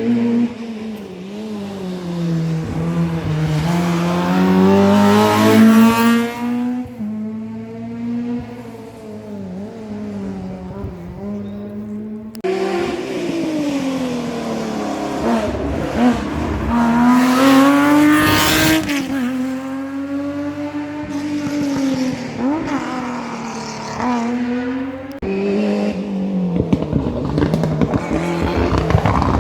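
Historic rally cars at full throttle on a special stage, engines revving hard up and down through gear changes as each car comes by, the engine note dropping as it passes, with some tyre squeal. The sound cuts abruptly to another car twice.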